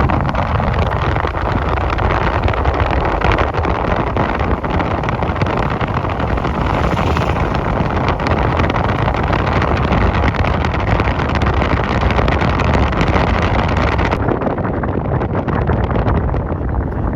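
Steady rush of wind and road noise from a moving vehicle, with wind buffeting the microphone. The hiss turns duller about fourteen seconds in.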